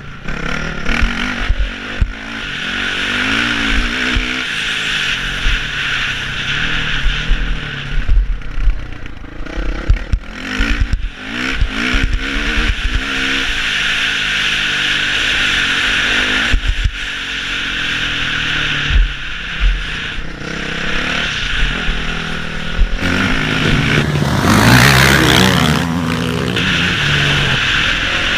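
Four-stroke motocross bike engine revving up and down as it is ridden around a track, heard from a helmet-mounted camera with wind noise. Knocks and clatter come from bumps and landings, and there is a louder surge of revs near the end.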